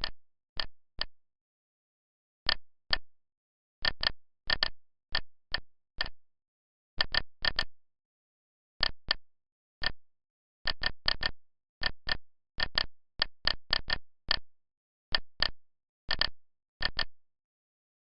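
Short, identical electronic click tones, dozens of them at an irregular typing pace, singly and in quick pairs and triplets, with dead silence between. They fit key-press sounds from a CNC lathe simulator's virtual control panel as a program is keyed in.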